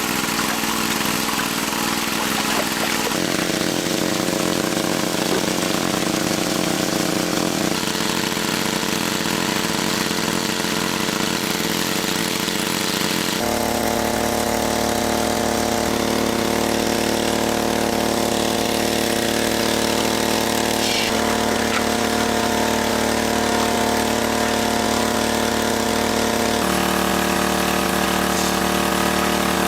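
A small engine running steadily, its pitch jumping abruptly several times.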